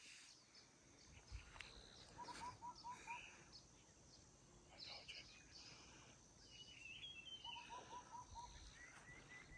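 Faint birds calling over quiet outdoor background noise: twice a quick run of about five short, even notes, with scattered higher chirps in between.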